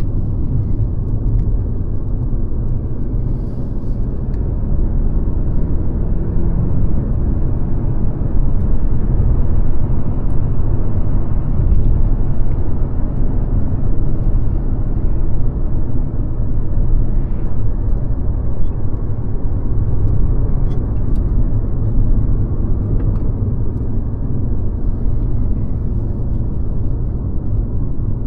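Mercedes-Benz C-Class (W206) on the move: a steady low rumble of engine and road noise, getting a little louder about eight seconds in.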